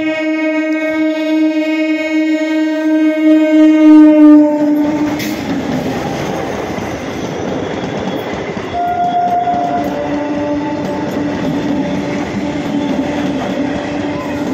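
A MEMU electric train sounds one long horn blast of about five seconds that grows louder as the train nears. The rumble and clatter of its wheels and coaches running past follow, with a brief higher tone about nine seconds in.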